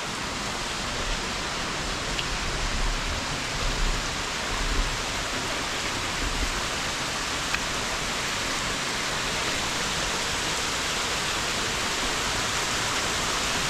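Waterfall pouring, a steady rushing hiss of falling water, with a few low bumps about four to six seconds in.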